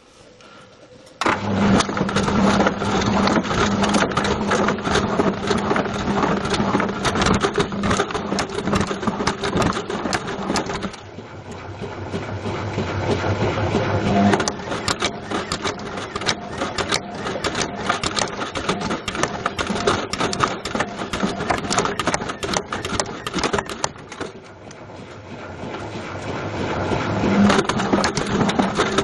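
Washing machine drum turning with a Bush VCR807 video recorder tumbling inside: loud, continuous clattering and banging over a steady motor hum. It starts suddenly about a second in and eases off briefly twice.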